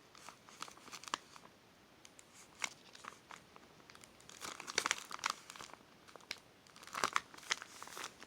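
Plastic packaging crinkling and rustling in irregular bursts as small wrapped kits are handled and moved about.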